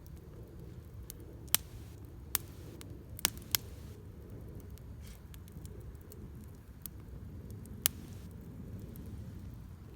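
Wood burning in a Solo Stove Campfire fire pit, a steady low rush with a handful of sharp crackles and pops from the wood, two close together about three and a half seconds in.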